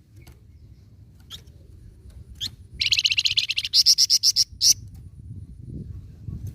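Songbird of the kind sold in Indonesia as 'flamboyan' singing actively: a few scattered single chirps, then, just under three seconds in, a loud burst of rapid repeated notes lasting about two seconds. A faint steady low rumble runs underneath.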